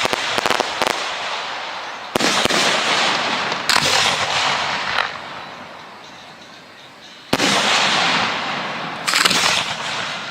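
Firework display shells going off one after another, each sudden bang followed by a long fading crackle and echo. A quick cluster of cracks comes at the start, then separate bursts about two, four, seven and nine seconds in, with a lull between about five and seven seconds.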